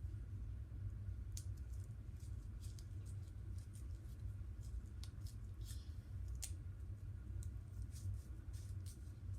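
Knife picking and cutting at the rubbery skin of a water-skipping ball: scattered small clicks and scratches, over a steady low hum.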